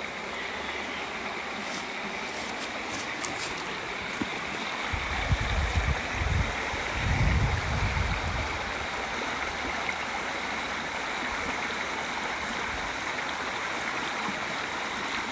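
River water running steadily over rocks, an even rushing sound. A low rumble comes in for a few seconds in the middle.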